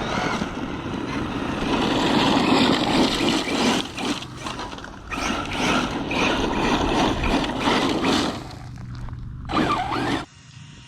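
Arrma Mojave 6S brushless RC truck running over rough, rocky dirt: a dense, noisy rush of motor and tyres with a steady low hum, cutting off suddenly near the end.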